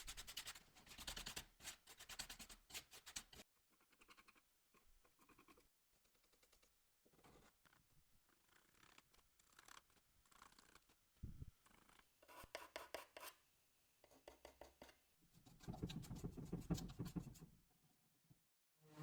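Faint scratching strokes in short, rapid runs with pauses between.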